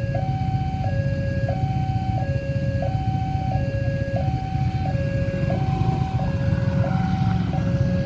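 Railway level-crossing warning alarm sounding an electronic two-tone signal, a higher and a lower tone alternating about every 0.6 s, over a steady low rumble.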